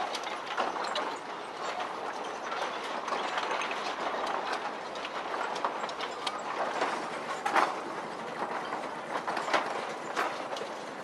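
Narrow gauge train running, a steady rumble with irregular clanking and clicking from the wheels and cars and a few louder knocks.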